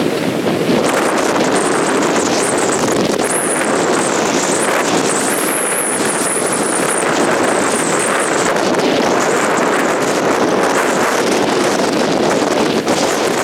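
Blizzard wind on the microphone: a loud, steady rush, with a thin, high, wavering whistle above it for the first several seconds.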